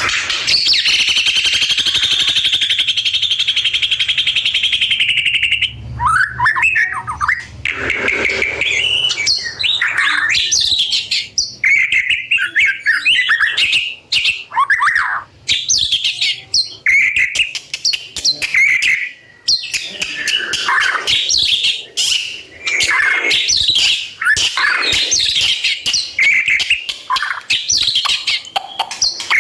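A murai songbird singing: a long, fast, continuous trill for about the first six seconds, then a run of varied whistled phrases, sweeps and chips with short breaks between them.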